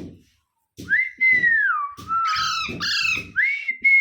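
Pet parrot whistling, one long sliding whistle that starts about a second in and rises and falls, with short rough calls repeating underneath it.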